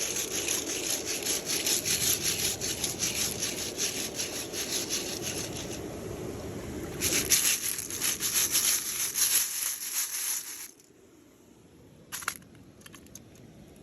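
Rushing, splashing water of a small waterfall close by, cutting off suddenly about eleven seconds in, followed by quiet with a single click.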